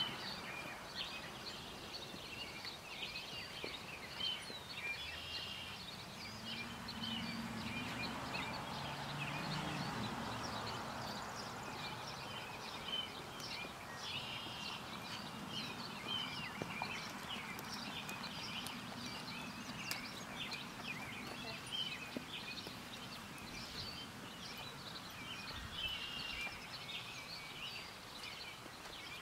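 Birds chirping and singing over outdoor background noise, with a low hum for a few seconds about a quarter of the way in.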